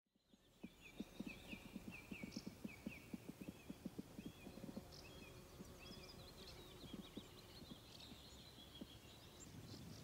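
Faint dawn birdsong of short repeated high chirps, over a run of soft low knocks at about three or four a second that thin out after about seven seconds.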